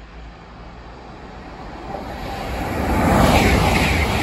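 LNER Azuma intercity train approaching and passing at speed: a rising rush of wheels on rail and air that builds steadily and is loudest about three seconds in as the carriages go by.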